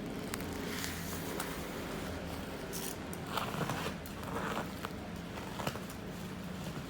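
Packaging being handled for an unboxing: short scraping and rustling strokes with a few sharp clicks over a steady low hum.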